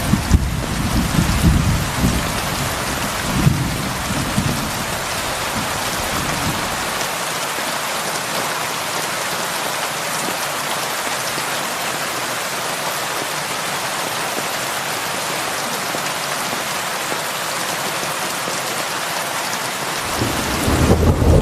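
Heavy rain on a roof, a steady even hiss. A low rumble sits under it for the first several seconds and comes back near the end.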